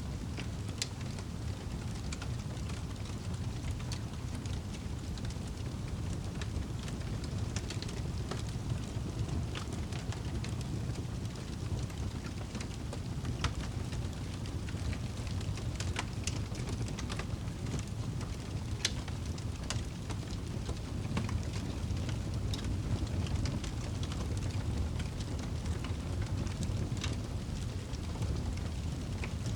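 Campfire crackling: scattered sharp pops and snaps at irregular intervals over a steady low rumble.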